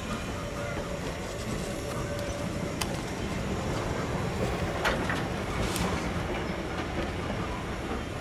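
A train rolling by: a steady rumble of wheels on rail, with a few sharp clicks about three and five seconds in.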